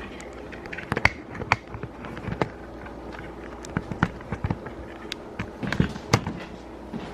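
Dry cat treats being gathered up off the floor: a string of irregular small clicks and rattles.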